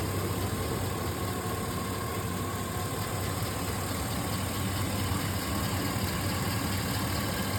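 2002 GMC Sierra 1500 pickup's engine running steadily, with an even, unchanging note.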